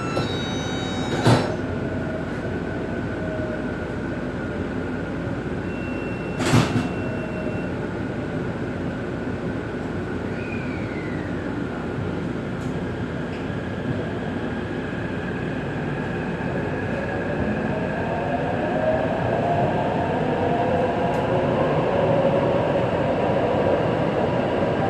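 Taipei Metro C381 subway car from inside: a steady hum while the train stands, broken by two sharp knocks in the first seven seconds. About two-thirds of the way through, the traction motors' whine starts rising in pitch and the sound grows louder as the train begins to pull away.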